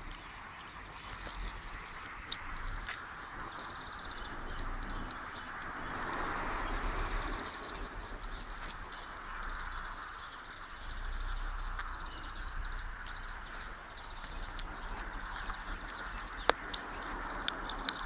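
Small songbirds chirping and singing continuously in quick repeated high notes, over a background rush that swells twice, with a couple of sharp clicks near the end.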